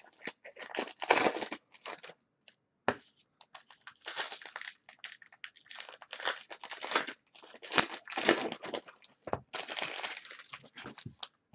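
Plastic-foil trading card pack wrappers crinkling as packs are torn open and handled, in quick irregular bursts with a sharp click about three seconds in.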